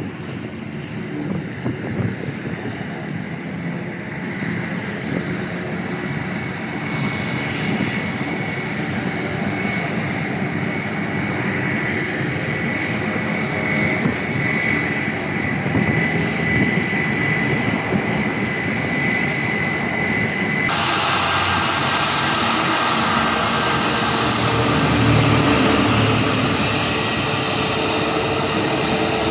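Aircraft engines running, a continuous rush of noise with a thin high whine, slowly growing louder. About two-thirds of the way through the sound changes abruptly to a fuller, louder rush.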